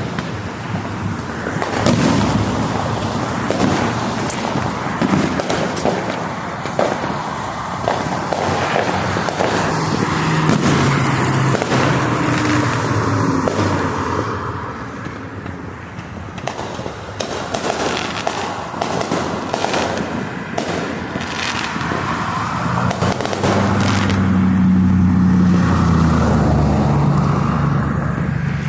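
Fireworks going off repeatedly: many sharp bangs and crackles over a constant rumble. A low droning hum rises under them for a few seconds in the middle and again near the end.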